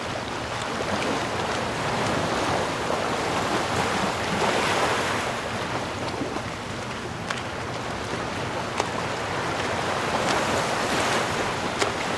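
Sea waves washing in and drawing back in slow swells, with larger surges about four to five seconds in and again near the end, and a few faint clicks.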